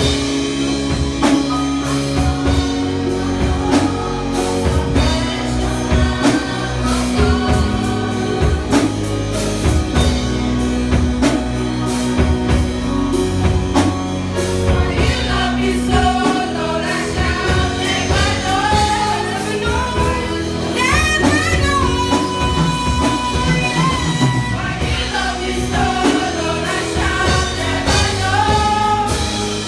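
Live gospel-style band music with drum kit and held bass notes; singing comes in about halfway through and carries on to the end.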